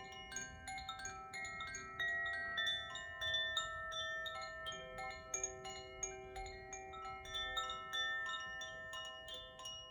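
Koshi chimes tinkling continuously, with many quick irregular strikes of their clappers, over long steady ringing tones from alchemical crystal singing bowls.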